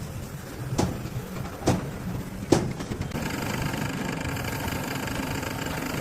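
Three sharp knocks over a low rumble, then, about halfway through, a steady engine-like running sound sets in and holds even.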